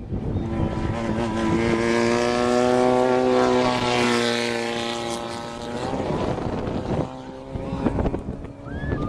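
Off-road race vehicle's engine passing at speed. It grows louder, then drops in pitch and fades as it goes by.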